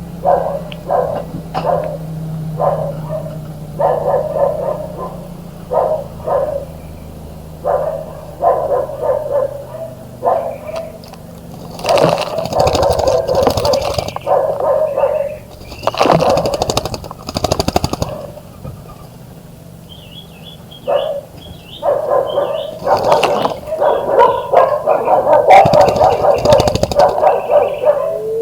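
A dog barking repeatedly in short, irregular barks, with a few louder noisy rushes in the middle and near the end.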